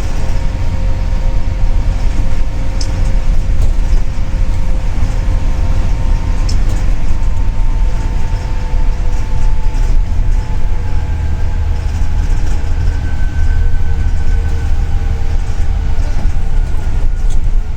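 Inside a double-decker city bus on the move: a steady deep rumble of engine and road noise, with a faint whine that slowly drifts in pitch.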